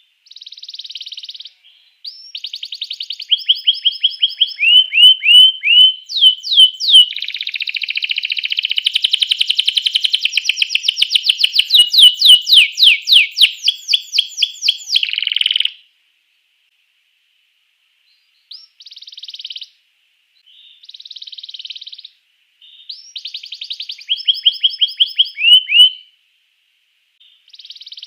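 Domestic canary singing: phrases of rapid repeated down-sweeping notes and fast trills. A long loud rolling trill runs from about seven to fifteen seconds in, then a pause of a few seconds, and shorter phrases start again.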